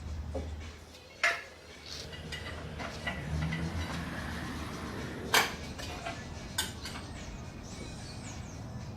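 Sharp metallic clanks of tools and metal parts being handled during an engine removal: a loud one about a second in, another about five seconds in, and a fainter one near seven seconds.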